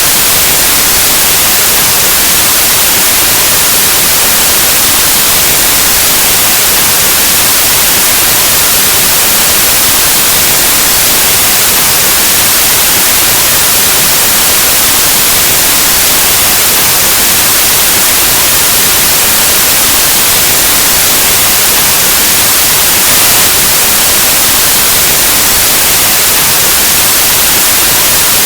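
Loud, steady white noise: an even static hiss like an untuned analog TV or radio.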